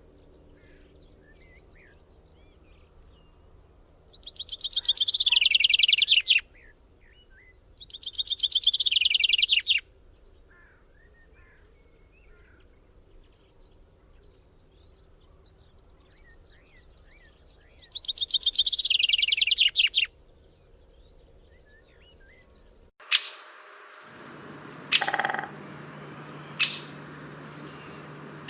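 A songbird singing three times, each song a rapid trill of about two seconds that falls in pitch, over faint chirps of other birds. About two-thirds of the way through, the background changes to a steady hum and a few sharp clicks or taps follow.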